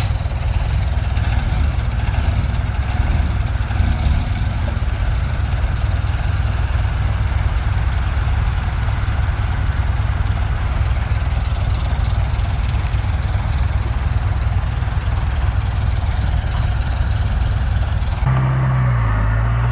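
Heavy construction machine's diesel engine running steadily. About a second before the end, the sound cuts abruptly to a steady low hum.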